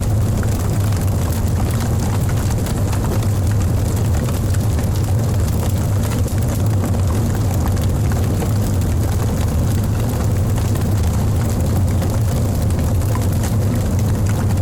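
Wood logs burning in a fireplace: many small crackles over a steady low rumble of the flames.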